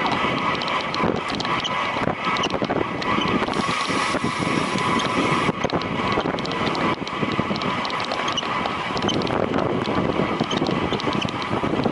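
Steady wind rushing over the microphone of a road racing cyclist riding at speed, mixed with the running noise of the bicycle.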